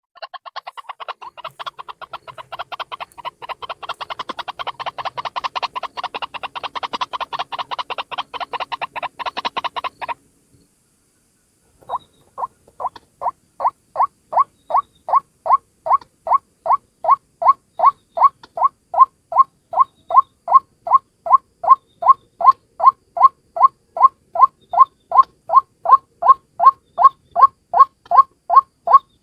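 White-breasted waterhen calling: a fast, dense run of croaking notes for about ten seconds, then after a short pause a steady series of single notes, about two or three a second, growing louder. It is a lure recording of a single bird.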